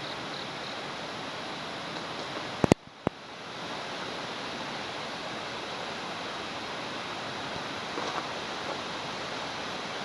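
Steady rushing of water at the dam. About three seconds in, two sharp clicks and a brief cut-out interrupt it, and the rushing fades back in.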